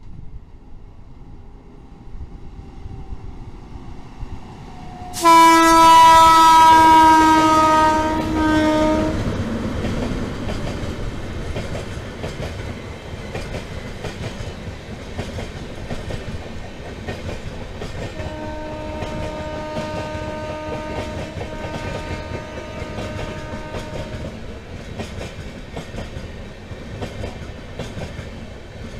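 Indian Railways passenger train passing close by. About five seconds in, a loud multi-note horn blast lasts about four seconds and drops slightly in pitch. The coaches then run past with a steady clickety-clack of wheels on the track, and a second, quieter horn blast comes midway through.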